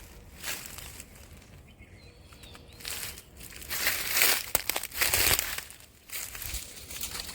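Rustling, crunching noise in uneven bursts, loudest a little past the middle.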